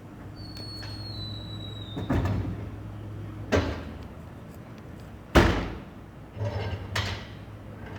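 Several hard bangs and thuds, the loudest about five seconds in, over the steady low hum of an idling garbage truck.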